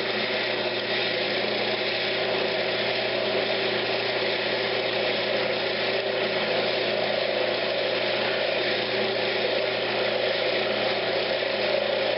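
Wood lathe running steadily with a turning tool taking very light cuts on a spinning pine knob, a steady motor hum under the hiss of the cut.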